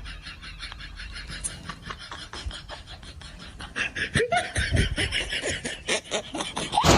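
A person laughing: quiet, rapid giggling that grows louder about four seconds in.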